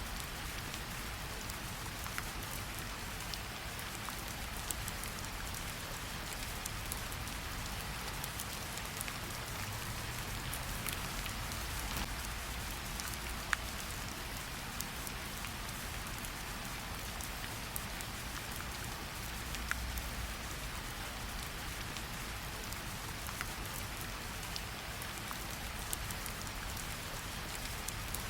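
Steady light rain pattering on tree leaves, with individual drops ticking now and then.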